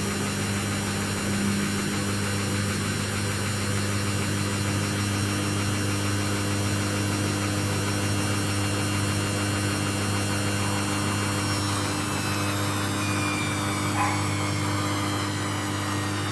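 Samsung front-load washing machine drum spinning fast on its rinse-and-spin cycle: a steady hum with a high motor whine. About eleven seconds in, the whine starts to drop slightly in pitch.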